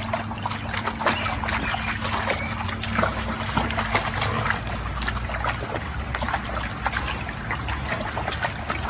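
Water splashing and trickling in a dense, irregular run of small splashes, over a faint steady hum.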